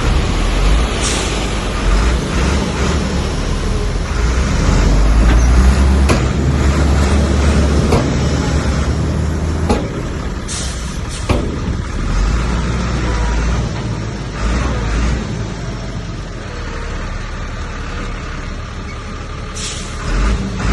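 Heavy diesel earthmoving machinery at work: a deep engine rumble that swells and eases, with scattered sharp metallic knocks and a few short high hisses.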